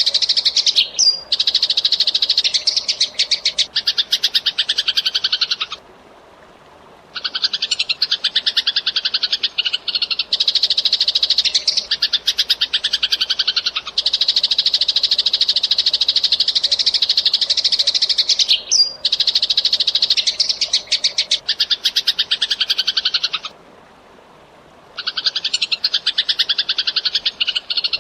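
Eurasian tree sparrow chattering fast: long, dense runs of rapid chirps, broken by two short pauses, one about six seconds in and one about three-quarters of the way through.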